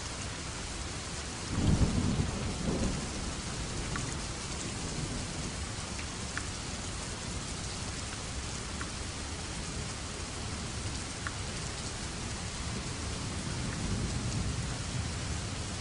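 Steady rain falling, with a few clear drips. A roll of thunder breaks in about a second and a half in and fades over a couple of seconds, and a fainter low rumble swells near the end.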